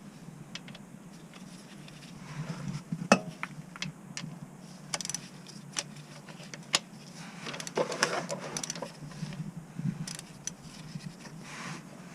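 Metal tools and parts clinking and knocking by hand: irregular sharp clicks and clinks, one loud clink about three seconds in and a busier run of rattling around eight seconds, over a steady low hum.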